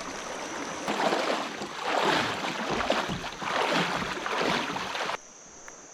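Water swishing and splashing in surges about once a second, like kayak paddle strokes, over a steady high insect buzz. The water sound cuts off suddenly near the end.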